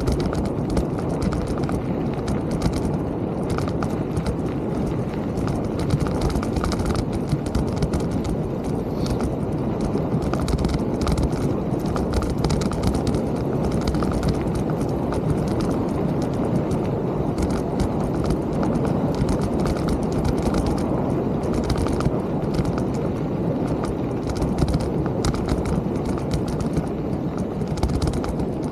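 Mountain bike being ridden over a rough trail: a steady low rumble with constant irregular rattles and clicking knocks.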